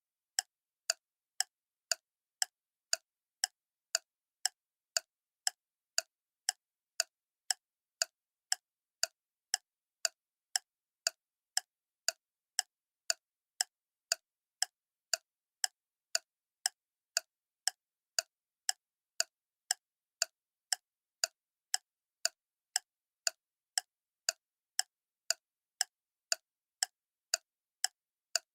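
Clock ticking: sharp, evenly spaced ticks in a steady rhythm, with silence between them.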